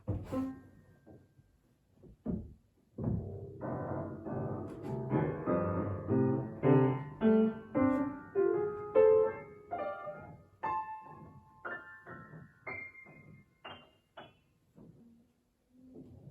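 Solo piano music: single notes ringing and fading one after another, climbing gradually in pitch, then thinning out to sparser notes near the end.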